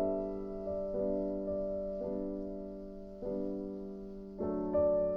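Background music: soft piano chords struck about once a second, each ringing and slowly fading.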